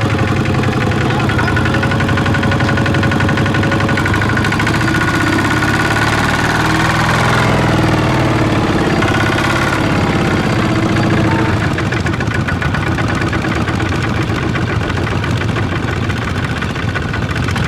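Farm machine's engine running steadily with a fast, even knocking pulse; its sound shifts about twelve seconds in.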